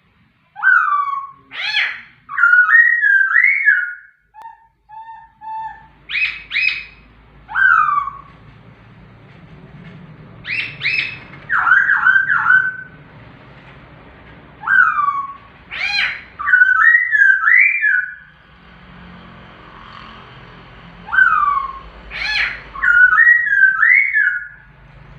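White-rumped shama (murai batu) singing in full voice: loud, clear whistled phrases with quick rising and falling sweeps, a similar phrase repeated about every five seconds.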